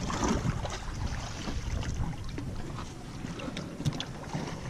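Wind buffeting the microphone on an open fishing boat, with a few light clicks and knocks, one a little before the end.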